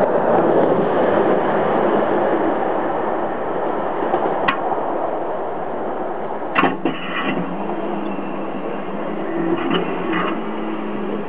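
A train's rumble dying away as it recedes after passing a red DB locomotive. Then come a few sharp clicks and knocks near the microphone in the second half.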